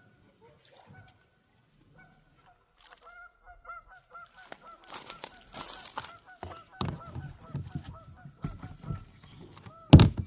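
A quickening series of short honking bird calls, starting about two seconds in, with a loud sharp knock just before the end.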